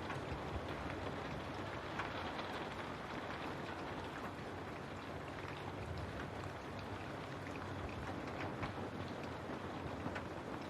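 Steady rain falling on a window: an even hiss with many small, sharp drop ticks scattered through it.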